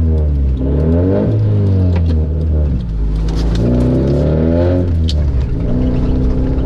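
Opel Frontera engine through a straight-piped exhaust under hard acceleration, the revs climbing and dropping a few times as it pulls through the gears, then running steadier near the end.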